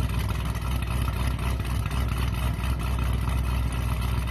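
Chevrolet SS sedan's V8 engine idling steadily, low-pitched and even.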